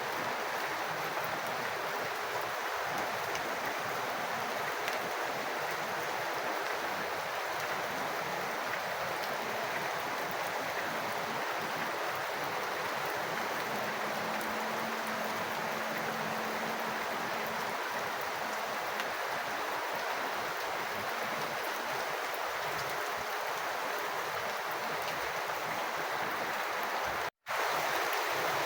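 Steady rush of falling rain water splashing and running, even and unbroken, cut by a momentary dropout to silence near the end.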